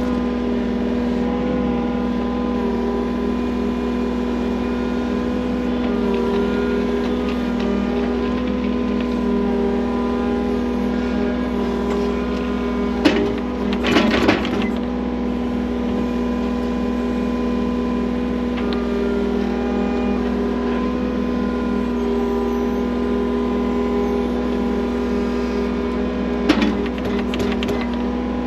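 Earthmoving machine's engine running steadily at high throttle while digging a trench, with a few metallic clanks and knocks around the middle and once near the end.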